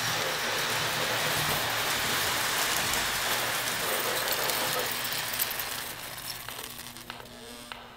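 Toy train running on its track, a steady rushing, whirring noise that fades away over the last few seconds.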